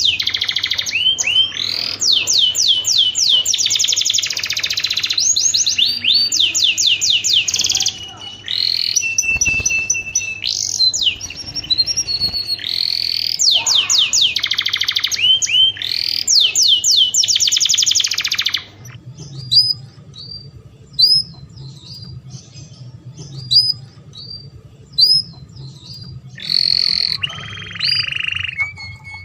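Domestic canary singing in long, rapid trills of fast-repeated downward-sweeping notes. About two-thirds in, the song breaks into short single chirps spaced out, then the trilling starts again near the end.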